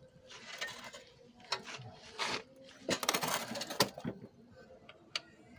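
Metal tools and engine parts being handled: a run of short scrapes and clinks, the longest and loudest about three seconds in.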